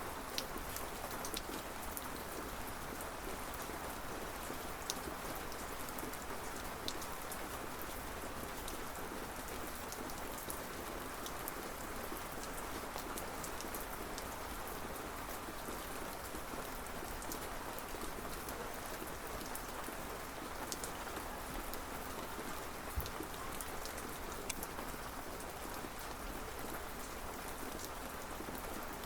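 Steady rain falling on a surface, with individual drops ticking sharply now and then over an even hiss.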